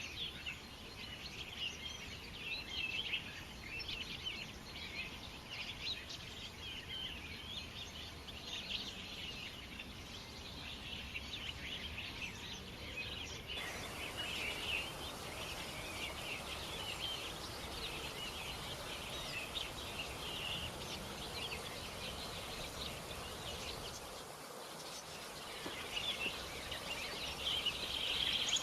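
Many small birds chirping and twittering at once in a dense, continuous chorus over a steady outdoor background hiss.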